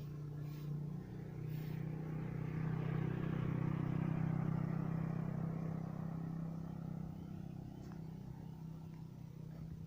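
A motor vehicle passing by: a low engine hum with road noise that grows to a peak about four seconds in and then fades away.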